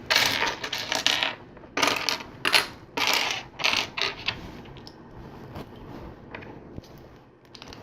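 Loose plastic LEGO pieces clattering and clicking as hands sift through a pile of them. The rattling comes in busy spurts for the first four seconds or so, then thins to a few light clicks.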